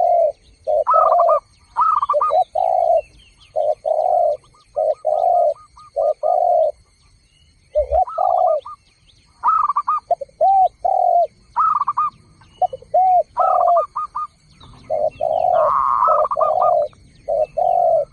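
Doves cooing over and over in short phrases of low, rounded notes, many phrases opening with a couple of higher notes. Faint small bird chirps can be heard above them.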